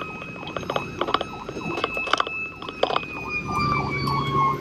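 Emergency vehicle siren sounding steadily, its pitch slowly falling in the second half, with several sharp clicks along the way.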